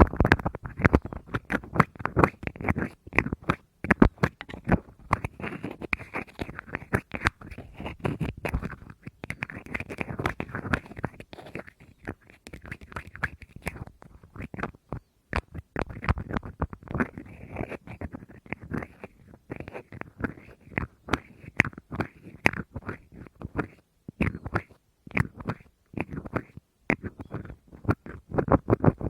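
Fast tapping on a hard object, many quick light taps a second in runs broken by brief pauses.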